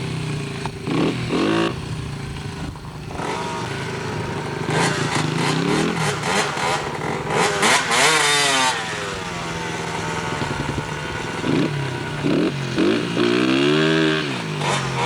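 Dirt bike engine revving, its pitch rising and falling again and again as the bike is ridden, loudest in a burst of hard acceleration midway.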